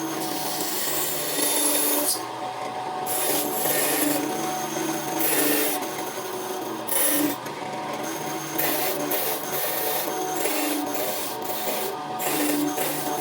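A woodworking machine hums steadily while its tool rasps against wood in repeated strokes of about half a second to a second each.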